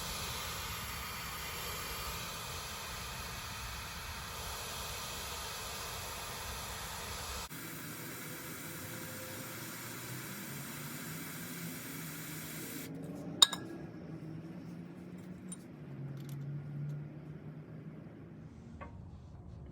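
Aerosol can of freeze-type penetrating spray hissing in long steady sprays onto a rust-seized brake line nut, to break the rust's grip. About thirteen seconds in there is a single sharp metallic click.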